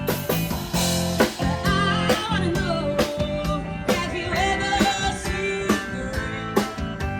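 A band playing a rock cover, with guitar, a steady drum beat and a singing voice that comes in about a second and a half in.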